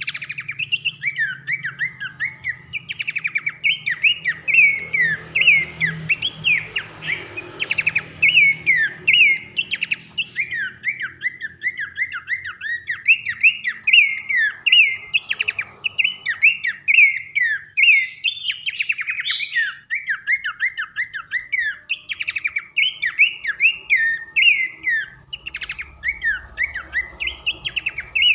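Horsfield's babbler (pelanduk semak) singing loud whistles: a rapid, unbroken run of short slurred notes, several a second, with a few quick trills mixed in.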